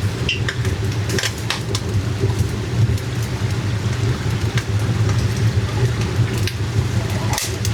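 Dough frying in hot oil, sizzling, with scattered sharp crackles over a steady low rumble.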